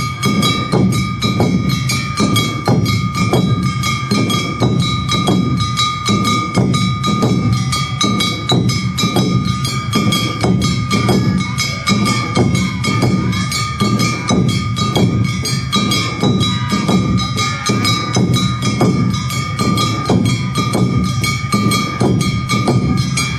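Awa Odori narimono band playing: drums and struck percussion keeping a steady two-beat rhythm at about two beats a second, with high held tones sounding over it throughout.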